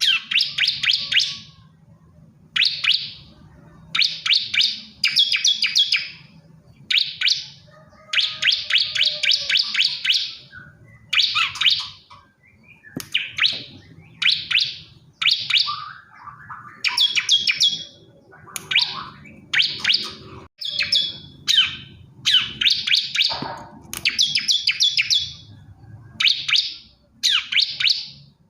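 Male bar-winged prinia (ciblek kristal) singing, calling for a female: short bursts of rapid, high trilled notes, repeated over and over with brief pauses.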